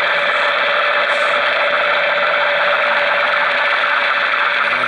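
Realistic DX-200 shortwave receiver tuned near 9 MHz, putting out a steady, unidentified noisy signal with a constant tone running through it. The audio is cut off sharply above about 4 kHz by the receiver's bandwidth.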